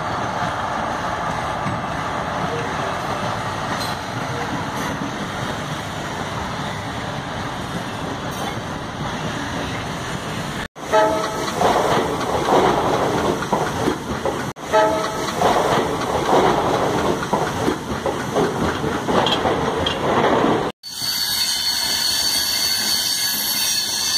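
Indian passenger trains running on the rails, in several clips cut together. First comes a steady rumble of ICF coaches behind an electric locomotive. About ten seconds in, a WDM diesel-hauled train comes in, louder and uneven, with short horn blasts. In the last few seconds, LHB coaches roll past with a steady high-pitched tone.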